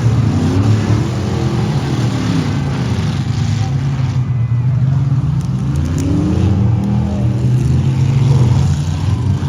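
A large truck or van engine running hard at high revs, its pitch swelling and sagging twice as the throttle is worked.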